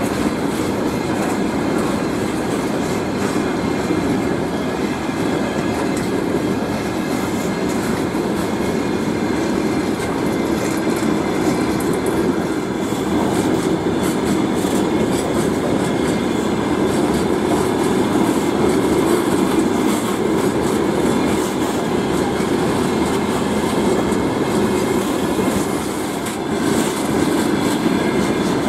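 Freight train of open gondola wagons rolling past close by: a steady rumble of steel wheels on the rails, with the clatter of wheels passing over rail joints.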